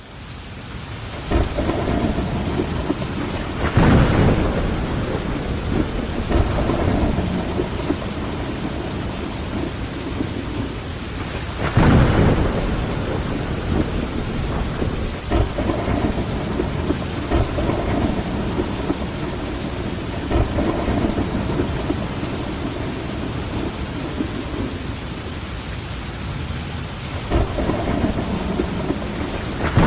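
Steady rain against a window with rumbles of thunder, the loudest swells about four and twelve seconds in and again near the end. The rain rises out of silence in the first second or so.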